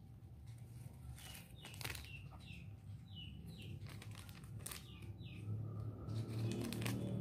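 A small bird chirping: short, quick falling chirps in little clusters. Under it are light crinkles and clicks of a small plastic jewellery bag being handled, and a low hum that grows louder near the end.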